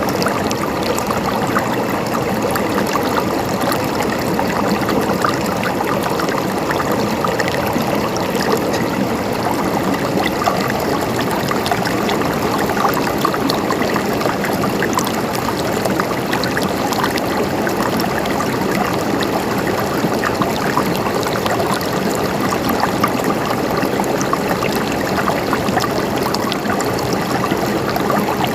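Water running steadily over stones in a stream, with a continuous gurgling and trickling.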